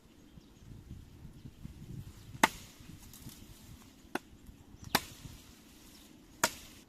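Four sharp, separate chopping strikes, a blade biting into wood, spaced unevenly a second or more apart; the first is the loudest.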